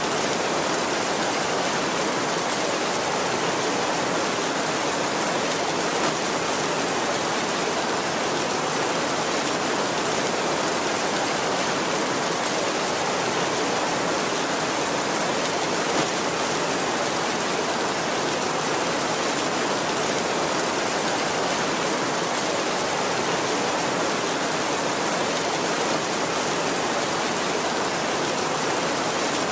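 Heavy rain falling steadily on a tin roof, a dense, even hiss that holds level throughout.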